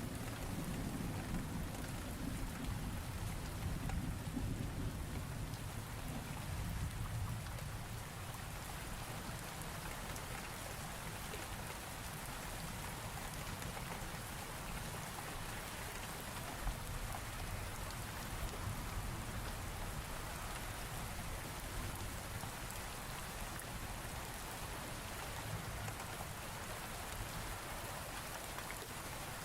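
Steady rain falling in a thunderstorm, with a low rumble of thunder that fades out about seven or eight seconds in, leaving the even sound of rain.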